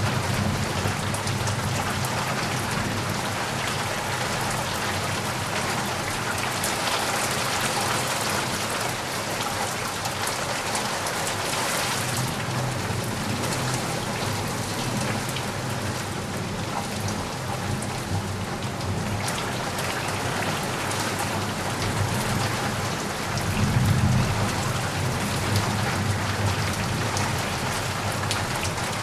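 Steady rain falling, a dense, even hiss of drops on surfaces. Near the end a low rumble swells briefly.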